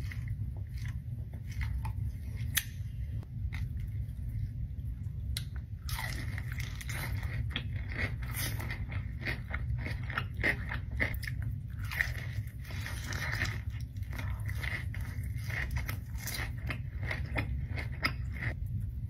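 Close-miked eating: biting and chewing crispy fried chicken, with crunching and wet mouth clicks, busiest from about six seconds in, over a steady low hum.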